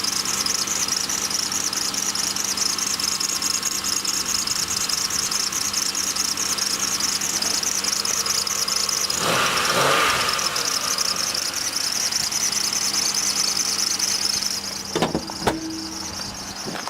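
2003 Pontiac Aztek's 3400 V6 idling just after a cold start, with a steady high-pitched squeal over the engine hum; the squeak goes away once the car is warmed up. A brief whoosh comes partway through, and a few knocks come near the end after the squeal fades.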